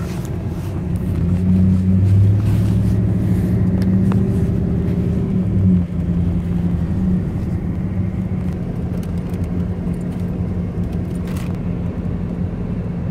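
Car engine and road noise heard from inside the cabin while driving: the engine's low hum swells about a second in, holds, then drops back suddenly near six seconds and runs on steady.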